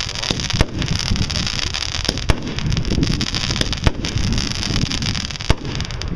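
Fireworks going off: a dense crackle over a steady hiss, with four sharper bangs about every second and a half. The hiss cuts off near the end. Wind rumbles on the microphone.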